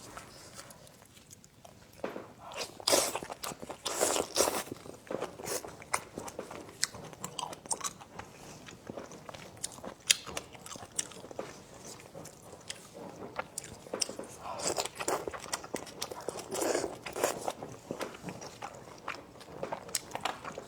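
A person biting and chewing food close to the microphone, with crunches and wet mouth clicks that come thickest about 2 to 5 seconds in and again around 15 to 17 seconds.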